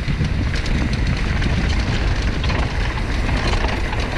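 Wind buffeting the microphone over the rattle and clatter of a mountain bike riding down a rough dirt trail, with many small knocks from the bike and the ground.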